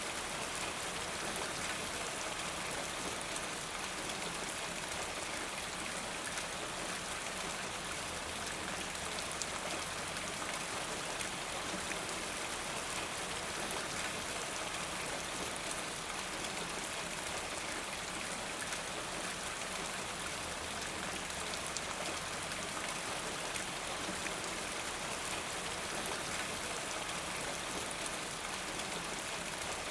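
Steady rain falling: an even hiss with many fine drop clicks, unchanging throughout.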